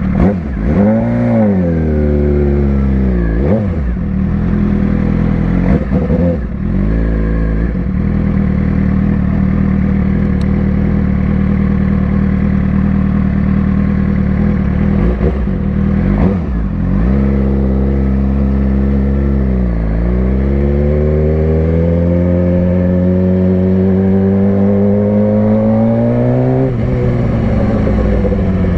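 Suzuki GSX-R600's inline-four engine under way, revs swinging up and down through quick gear changes in the first few seconds, with more shifts after. Near the end it pulls one long steady climb in pitch for about seven seconds, then drops sharply at an upshift.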